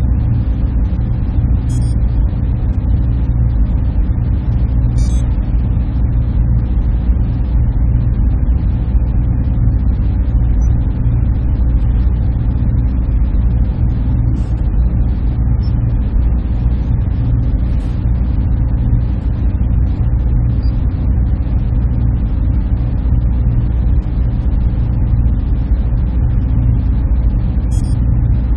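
Server-room equipment humming: a steady, even low drone with a few faint, brief high ticks.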